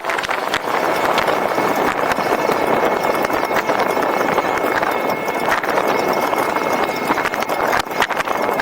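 Riding noise from an e-bike on the move: a steady rush of tyre and wind noise with many quick clicks and rattles, and a faint thin high tone running underneath.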